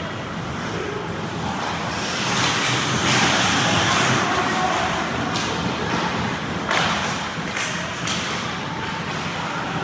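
Ice hockey play near the net: skate blades scraping the ice in a loud hissing stretch, followed by several sharp clacks and knocks from sticks, puck and boards.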